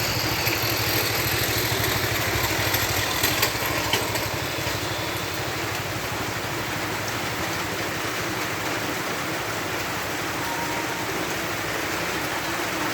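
Heavy rain pouring steadily, as an even rushing hiss. A low pulsing rumble, like an idling engine, runs under it for the first few seconds and then fades.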